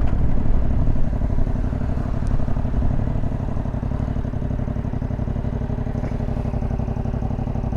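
Motorcycle engine running steadily under way, a low, even exhaust note that eases slightly in the first couple of seconds.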